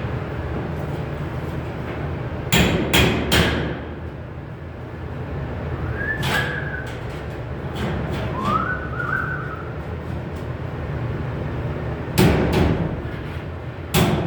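Hammer blows on sheet metal in short groups of two or three strikes, each ringing briefly, over a steady low hum.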